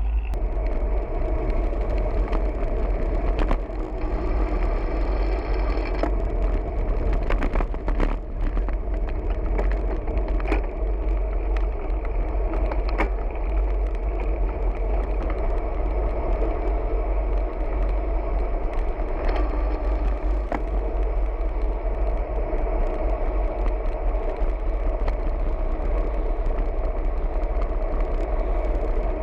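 Steady wind rumble and road noise of a moving bicycle ride, with scattered light clicks and knocks.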